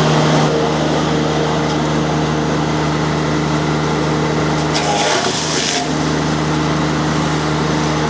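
Mini skid steer's Kubota diesel engine running steadily under load, driving a disc mulcher. About five seconds in, a roughly one-second burst of harsh, high-pitched noise comes as the disc chews into wood.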